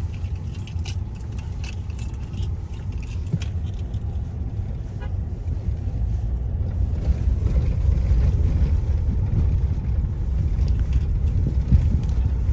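Low road and engine rumble inside a moving car's cabin, with light clinking rattles; the rumble grows louder about halfway through.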